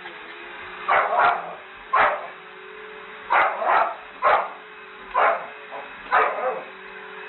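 A dog barking: about eight short barks spaced irregularly, some in quick pairs, over a steady low hum.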